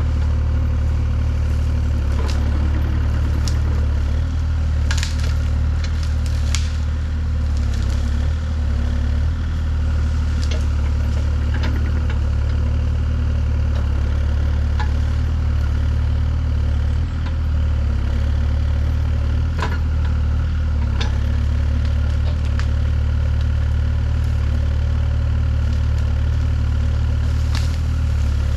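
An engine running steadily at low speed, with scattered sharp cracks and knocks over it.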